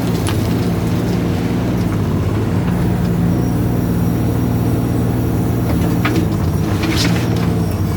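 Volvo mini excavator's diesel engine running steadily under work, with a short burst of sharp knocks or scrapes about seven seconds in.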